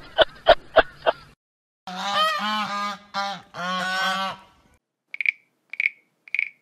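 Three short wild animal recordings spliced together. First a quick run of sharp calls, then a series of loud, pitched, honking-type calls, each rising and falling slightly. Last come short, high chirps repeated about twice a second.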